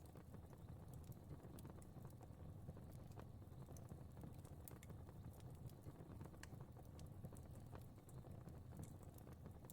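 Fire crackling faintly: irregular small pops and snaps over a low, steady rumble.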